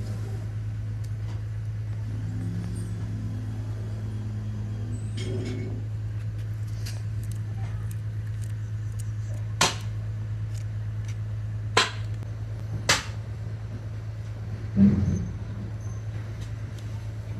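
Factory machinery running with a steady low hum. In the second half come three sharp knocks a second or two apart, then a heavier thud.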